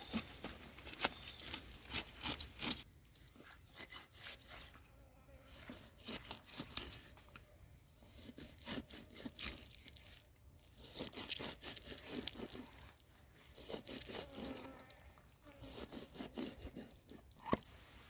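Short scraping and rubbing strokes in irregular runs, with scattered clicks and a sharp click near the end.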